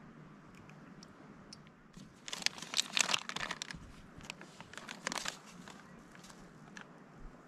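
Crinkling and crackling handling noise in two bursts: a longer one starting about two seconds in and a shorter one about five seconds in.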